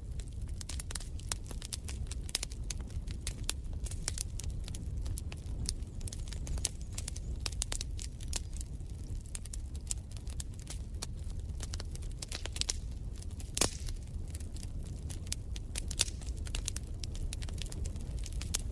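Wood fire in a fireplace crackling and popping: irregular sharp snaps over a steady low rumble, with one louder pop near the end.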